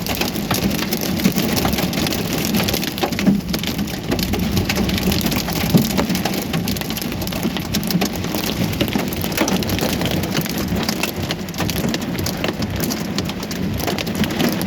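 Hail and heavy rain pelting down in a storm: a dense, steady clatter of countless small sharp hits.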